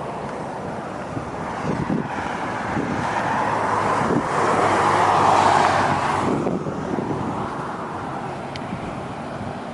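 A road vehicle passing by, its noise swelling to a peak about five seconds in and then fading, over steady outdoor background noise.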